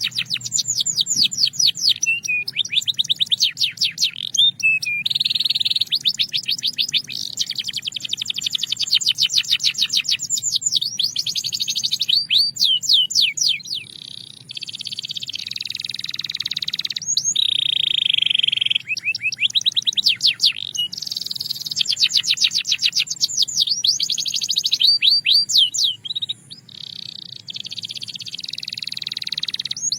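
Canary singing a continuous song of rapid high trills, runs of quickly repeated notes alternating with steadier buzzing rolls, with brief pauses about halfway through and again near the end.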